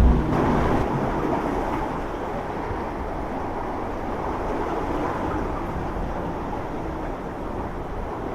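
Steady low rumble and rush of boats running through an inlet, engines and churning water together, with a brief low thump right at the start.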